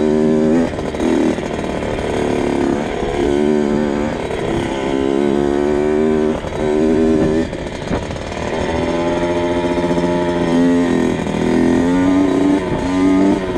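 2002 Kawasaki KX 65's small two-stroke single-cylinder engine being ridden, revving up and dropping back again and again as the throttle opens and closes.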